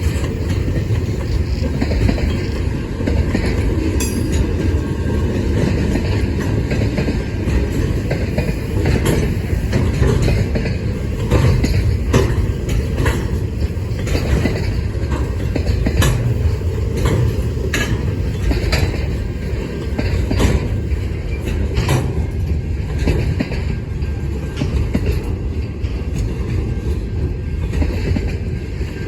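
Freight train rolling past with a heavy, steady rumble, its wheels clicking over rail joints about once a second.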